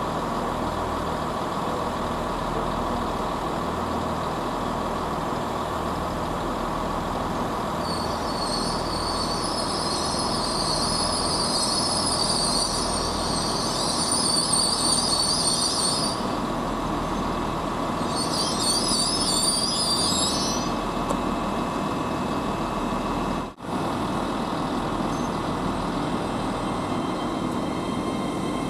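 A train at the station with a steady rumble and hum. A high, wavering squeal comes in about a third of the way through and again a little later. The sound cuts out for a moment about two-thirds of the way through.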